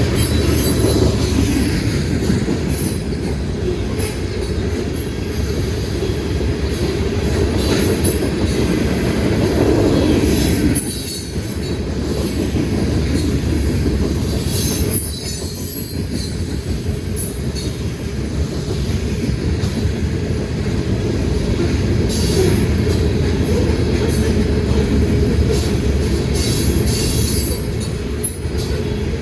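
Freight train cars rolling past: a steady heavy rumble of steel wheels on rail, with high-pitched wheel squeal coming and going every few seconds.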